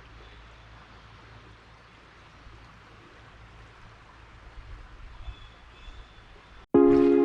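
Faint, steady outdoor river ambience, an even hiss of flowing water. Near the end it cuts off and loud music starts abruptly.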